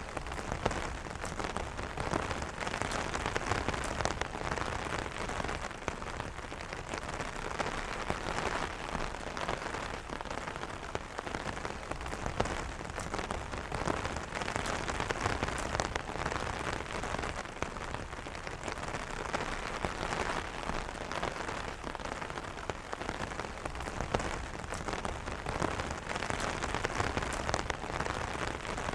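Rain falling on an umbrella: a dense, steady patter of drops tapping the fabric canopy.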